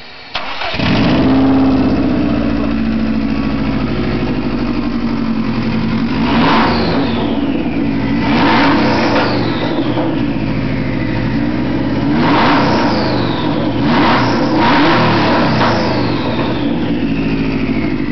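2002 Subaru WRX's turbocharged flat-four, exhausting straight out of an Evo III 16G turbo with no exhaust pipe fitted, starting about half a second in and settling to idle. It is then revved several times, each blip followed by a high turbo whistle that falls away as the turbo spools down.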